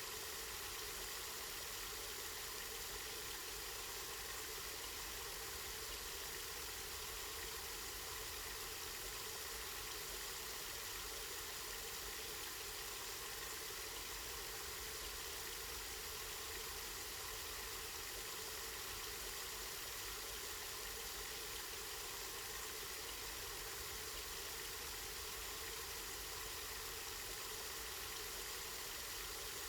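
Water running steadily from a spring, a constant even rush of flowing water.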